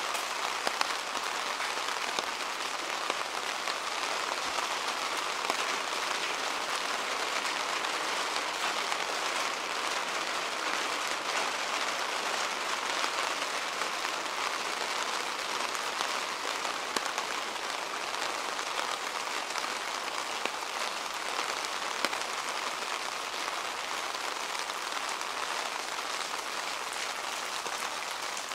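Steady rain falling on a city street, a constant hiss with many individual drops ticking close by.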